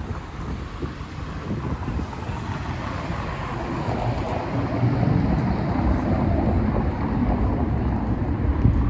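City street noise: a low rumble of traffic mixed with wind buffeting the microphone, growing louder about halfway through.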